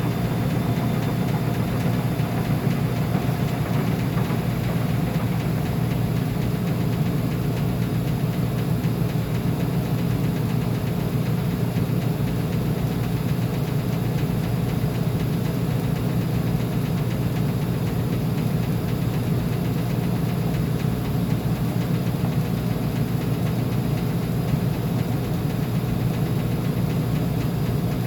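Uni-Mac UniMat 35 commercial front-load washer running steadily, a constant low motor-and-drum hum with no pauses or changes.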